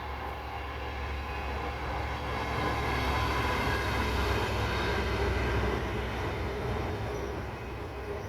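A train passing, with a steady low drone under the rumble that builds to a peak a few seconds in, then eases off.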